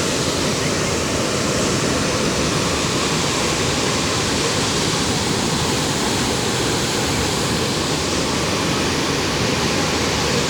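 Waterfall in flood: a loud, steady rush of falling water that never lets up.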